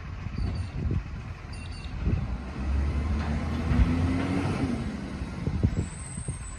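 Garbage truck running with a low rumble and irregular low thuds. A pitched whine climbs for a couple of seconds in the middle and then drops away.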